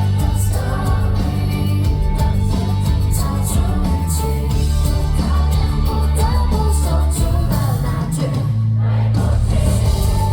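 A Mandarin pop-rock song playing, with a steady bass line, drums and a melodic lead line; the drums and cymbals drop out briefly about nine seconds in.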